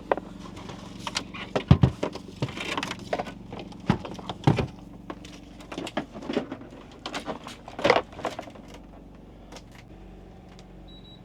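Irregular knocks, clicks and clatter of objects being handled while a portable air conditioner is set up, with the loudest knocks about two seconds in and near eight seconds in, over a steady low hum.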